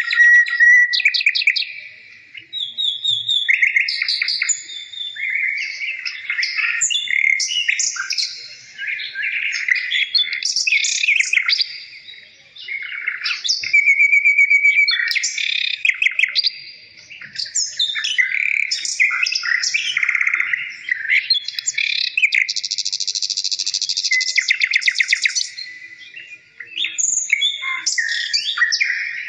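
A songbird singing a long, varied song of rapid trills, chirps and clear whistles, phrase after phrase with brief pauses.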